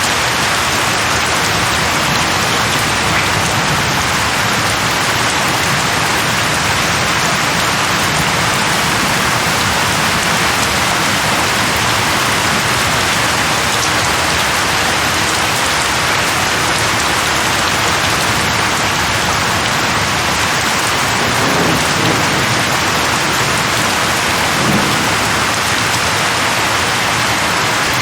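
Steady rain falling on a surface, an even hiss that holds its level throughout. About three-quarters of the way through come two brief low rumbles.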